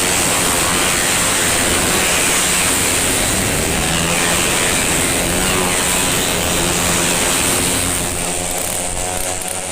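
Tuned 130 cc automatic racing scooters running at high revs in a pack, a loud steady mass of engine noise that eases slightly near the end.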